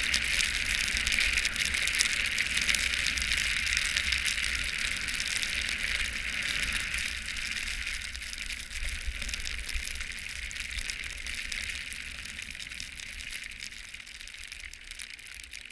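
Skis sliding over snow, a steady hiss that gradually fades toward the end, with wind buffeting the microphone in a low rumble.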